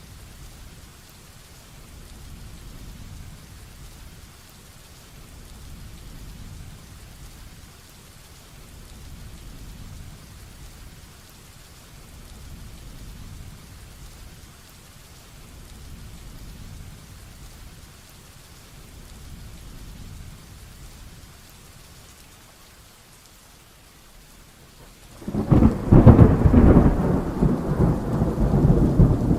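Heavy rain falling steadily over a low rumble of distant thunder. Near the end a loud thunderclap breaks in suddenly and rolls on.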